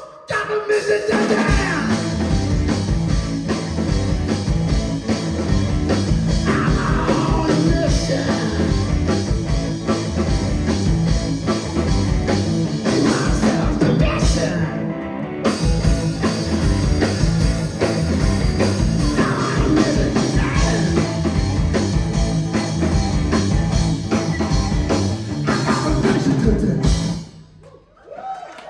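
Live rock band playing loud, driving music that stops abruptly about a second before the end.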